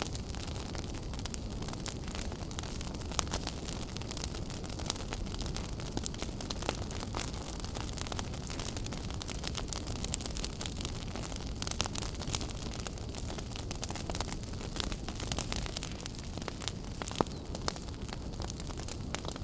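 Wood fire burning in a fireplace, with a steady low rumble of flames under frequent sharp crackles and pops; a few louder pops stand out, about three seconds in and again around seventeen seconds.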